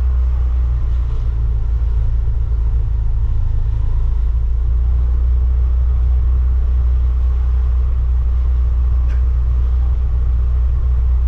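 Steady, loud low rumble of a motorcycle ride: wind buffeting the microphone mixed with the engine and road noise. A short faint click comes about nine seconds in.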